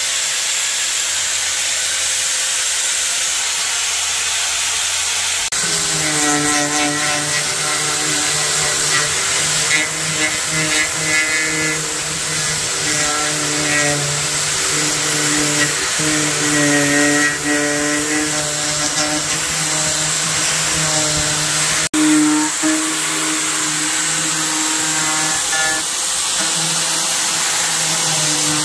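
An electric power tool running with a loud, steady hiss. About five seconds in, a motor hum joins it, its pitch wavering up and down as the tool is loaded. The sound cuts out for an instant about 22 seconds in.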